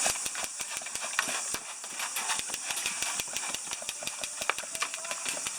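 A rapid, irregular run of sharp clicks and snaps over a steady high hiss.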